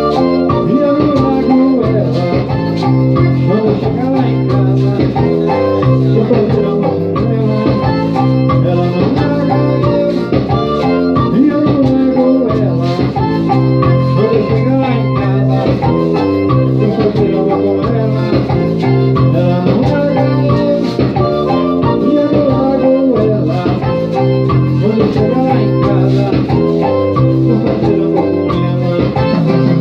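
Instrumental passage of a song played live on an electronic keyboard, with an organ-like lead over plucked-string accompaniment and a steady beat.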